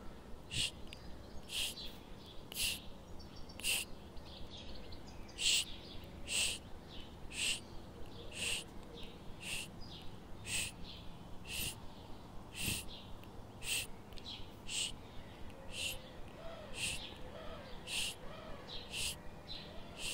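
A bird chirping over and over, one short high chirp a little more than once a second at an even pace.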